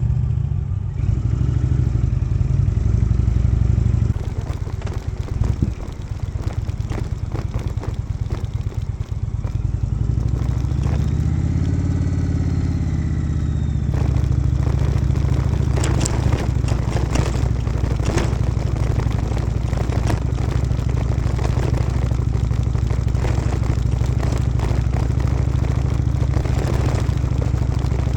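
Indian motorcycle running under way, a steady low engine rumble with wind rush and buffeting crackle on the microphone. About halfway through, a tone rises and falls over a couple of seconds.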